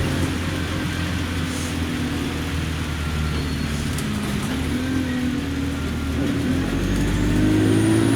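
Alexander Dennis Enviro200 bus's diesel engine running steadily, then rising in pitch and growing louder near the end as the bus accelerates, with a faint high whine climbing alongside.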